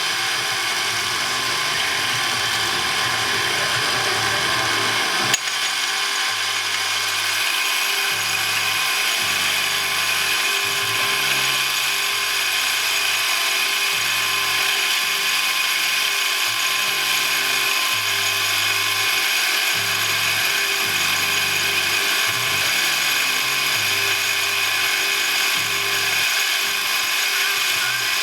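A machine tool runs steadily with a gear-like whine. A sharp click comes about five seconds in.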